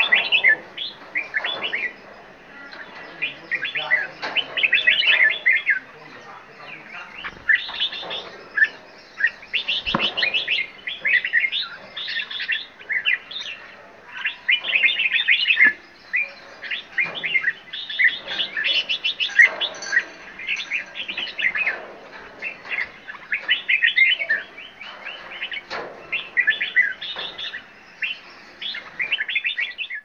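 Several caged birds chirping and twittering in quick, high-pitched bursts, one overlapping another. A single sharp knock comes about ten seconds in.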